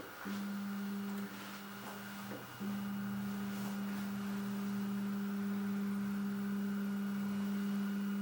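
Qidi X-Plus 3 3D printer humming a steady low tone, with two brief breaks in the first few seconds.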